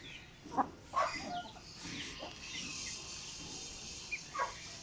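Chickens calling on and off, a few short clucks about half a second, a second, and four and a half seconds in.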